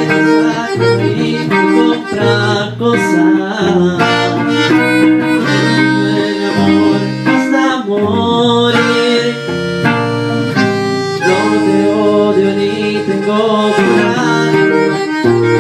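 Instrumental break of a Spanish-language band song: an accordion plays the melody over a plucked guitar accompaniment, with a steady rhythm and no singing.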